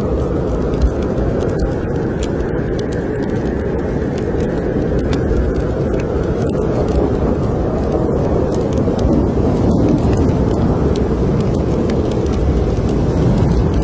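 Snowstorm wind blowing steadily, with a wood fire crackling and popping in a fireplace.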